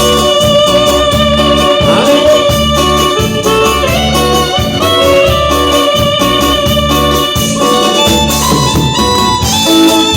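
Live band playing loud instrumental dance music, with a repeating bass pattern under held melody notes.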